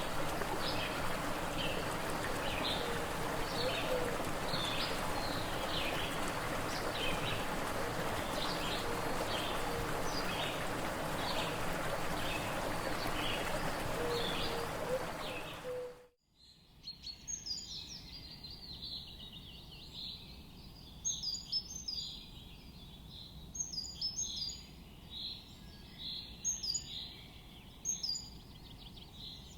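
Birds calling over a steady rushing background, with a high call repeated about once a second and a few short low hooting notes. About halfway through it cuts abruptly to a quieter scene of high, chirping birdsong in quick bursts.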